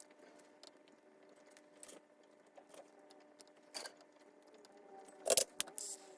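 Light clicks and rattles of small hard parts being handled, with a sharper clatter near the end. A faint steady hum sits underneath.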